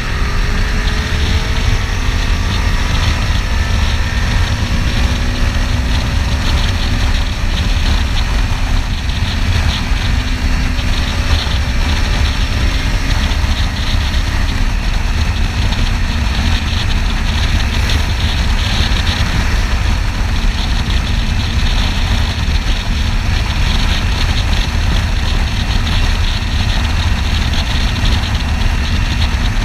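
Kawasaki Ninja 300 parallel-twin engine running while the motorcycle is ridden, under heavy wind rush on the microphone. The engine tone climbs slowly through the first half, then sinks into steady road and wind noise.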